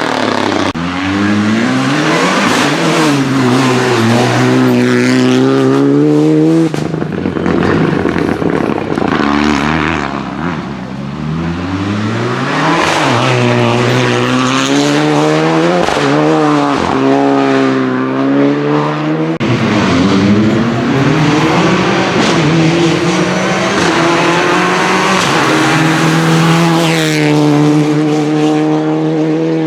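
Renault Clio Rally4 rally car's turbocharged four-cylinder engine revving hard at full attack, its pitch climbing and dropping over and over through quick gear changes and lifts. The sound changes abruptly about seven seconds in and again after about nineteen seconds, as from one pass of the car to another.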